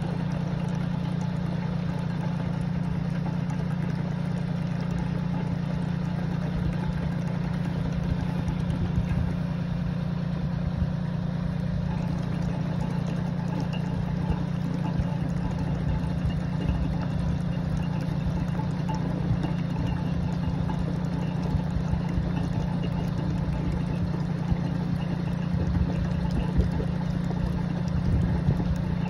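An engine running steadily at a constant speed, a steady drone that never changes pitch, with a few irregular low knocks near the end.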